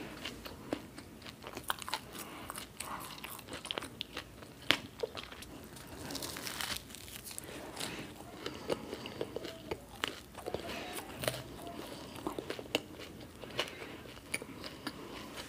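Close-miked chewing and biting of crisp fried onion bhajiya and toasted bread, full of sharp crunchy crackles and clicks. A denser, louder crunch comes about six seconds in.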